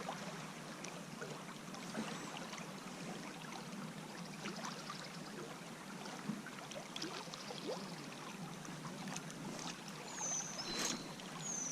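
Steady rush of flowing river water with scattered small clicks. Near the end come two short, high chirps that fall in pitch.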